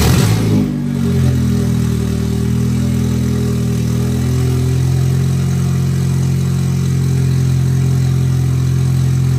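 Audi S3 (8Y) 2.0-litre turbocharged four-cylinder with its exhaust removed, catching on start-up. It flares up, then settles within about a second and a half into a steady, loud idle with no exhaust fitted.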